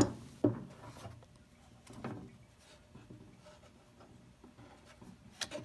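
Handling noise: a sharp knock at the start and another about half a second later, then faint rubbing and scattered small clicks, with a click near the end.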